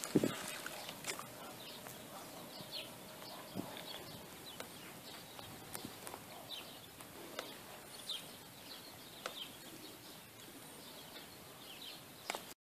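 Faint chirps of small birds, short high calls every second or two, with scattered light clicks and taps.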